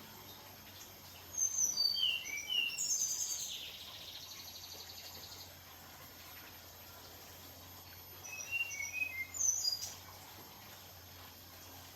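Red siskin singing in two bouts of high chirps and twittering, the first running into a long buzzy trill. A faint steady hum runs underneath.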